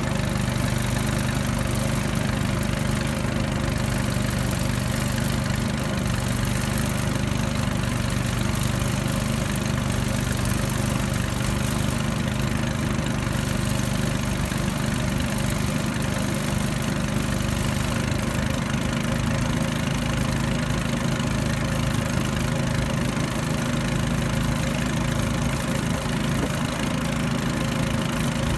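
Motor of a Li River tourist raft running steadily at constant speed: an even engine hum with no change in pitch.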